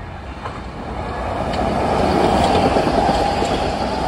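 Metro-North commuter train running through the station, its wheel and running noise building up about a second in and staying loud, with a few light clicks of the wheels over the rails.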